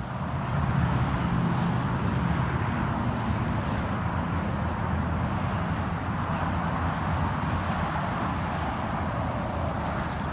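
A car engine running steadily, getting louder about half a second in and holding there.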